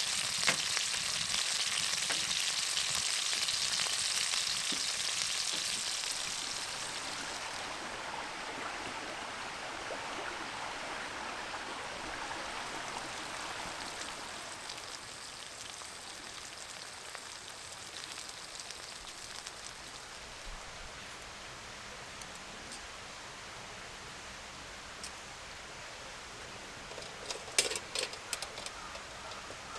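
Food sizzling as it fries, loud at first and fading over the first several seconds to a faint steady sizzle. A few sharp clicks and knocks come near the end.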